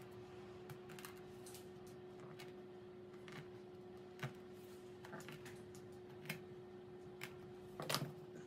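Scattered light clicks and taps of kitchen items being handled, a second or so apart, with a short cluster of louder knocks near the end, over a steady low electrical hum.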